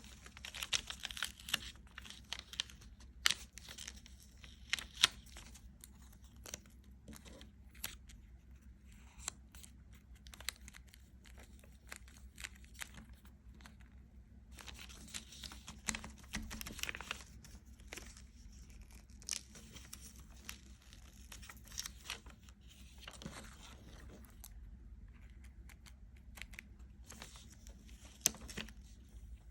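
Close-up crinkling and tearing with many sharp clicks and crackles, coming in clusters with a short quieter spell near the end.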